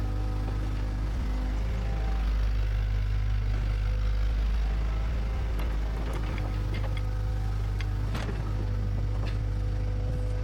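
Bulldozer's diesel engine running steadily, with a few sharp knocks and clanks in the second half.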